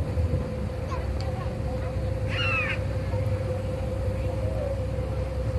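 Boat engine running steadily with a low rumble and a constant hum, and a single short gull call about halfway through.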